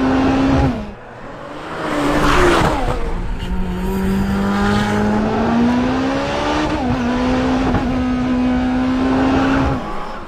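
Czinger 21C hypercar's hybrid V8 at speed. The engine note breaks off under a second in and a whooshing swell passes around two seconds. The revs then climb steadily for several seconds, dip at a gear change about seven seconds in, and hold before cutting off near the end.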